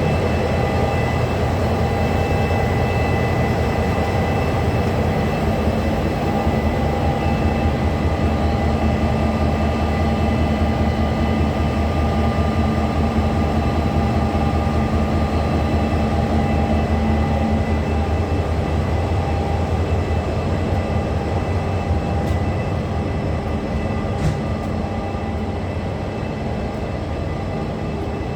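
Capital Connection's diesel locomotive running steadily, a deep rumble with a steady whine, easing off slightly in the last few seconds.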